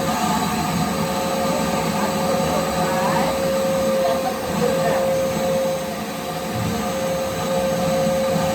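Shop vacuum running steadily with a constant motor whine, sucking dust and dirt out of a hole in the floor.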